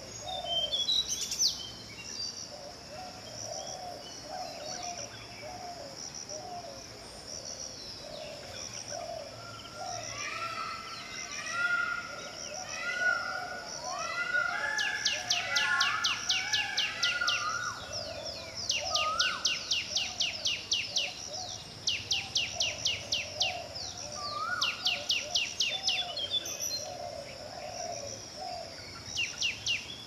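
Tickell's blue flycatcher singing among other birdsong. Short falling whistled phrases come about ten seconds in, then long runs of rapid trilled notes through the second half, over a steady high-pitched hum.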